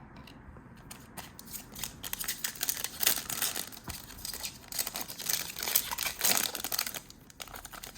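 Foil wrapper of a trading card pack crinkling and tearing as it is handled and opened, a dense run of crackles from about two seconds in that drops away near the end.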